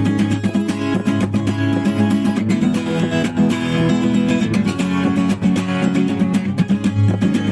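Acoustic guitar strummed in a steady, quick rhythm, with no singing.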